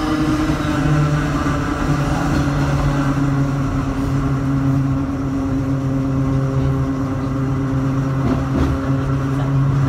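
Hakone Tozan Railway car 103, an old Moha 1-type electric car, running downhill as heard from inside the car: a steady low hum over the rumble of wheels on rail.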